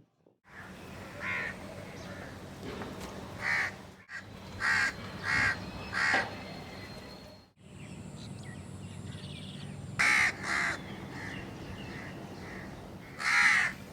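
Crows cawing: single short caws about a second apart, in several groups, over a steady low background hum. The sound drops out briefly twice, about four and seven and a half seconds in.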